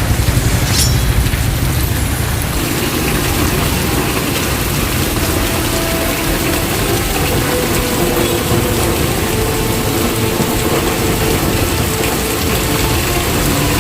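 Heavy rain pouring with a steady hiss. A deep rumble under it drops away about two and a half seconds in, and a few faint held tones sound in the background.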